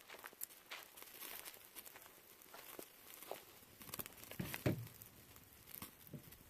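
Cooking fire crackling with irregular small pops, and one louder, duller knock about two-thirds of the way through.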